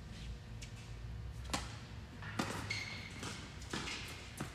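Tennis ball being hit by rackets and bouncing on the court: a few sharp pops spaced about a second apart.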